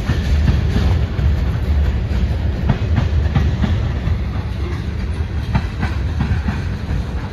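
Freight train of tank cars rolling past: a steady low rumble of steel wheels on rail, with repeated sharp clacks as the wheels cross rail joints.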